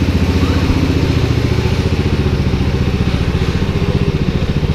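Toro mower's small gasoline engine running steadily, with an even, fast beat.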